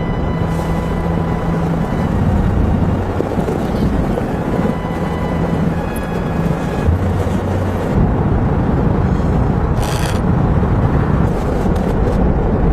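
Strong snowstorm wind blowing as a loud, steady rushing noise, with faint low humming tones coming and going under it.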